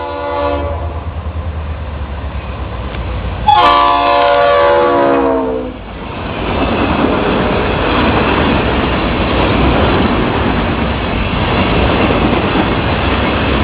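Florida East Coast Railway freight train passing a grade crossing. The locomotive's air horn finishes one blast just after the start, then sounds a second, louder blast about three and a half seconds in whose pitch drops as the locomotive goes by. After that comes the steady rushing rumble of the cars rolling past.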